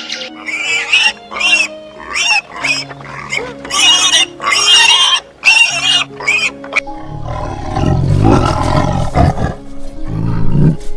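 Over background music, a run of short, high, wavering animal calls repeats about twice a second. About seven seconds in, a loud, deep, rough animal roar takes over.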